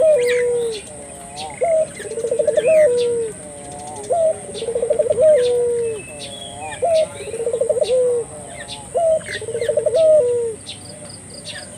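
Puter dove (Barbary dove) cooing vigorously in its repeated full call: a short rising note, a rolling pulsed coo and a falling tail, about every two seconds, five times before it stops near the end. Faint chirps of small birds sound over it.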